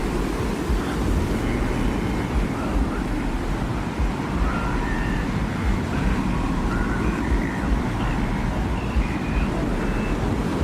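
Steady desert wind, a deep rumbling roar with faint short whistling tones that come and go above it.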